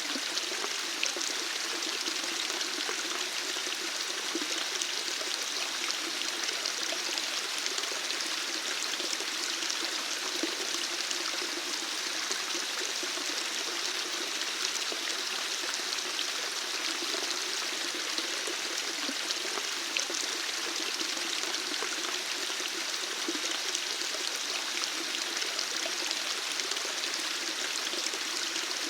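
Running water flowing steadily, an even rushing splash with small droplet ticks scattered through it.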